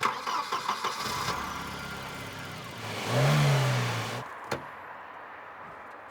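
A car engine, most likely the 1994 Volvo 945's, turning over with a quick rattling clatter and then running. About three seconds in it revs up and back down, and a single sharp click follows.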